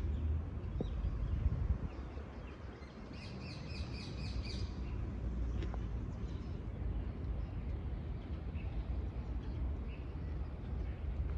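Wind buffeting the microphone in a steady low rumble, with a bird giving a quick run of about six repeated calls around three to four seconds in and a few faint chirps later.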